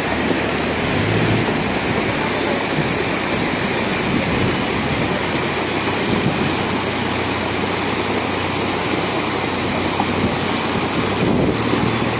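Steady, loud rush of water from heavy rain or rain-swollen floodwater, with a faint low hum underneath.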